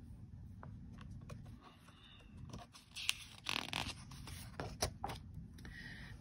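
Paper rustling and scraping with a few light clicks as a picture book's page is handled and turned; the rustling is loudest a little past the middle.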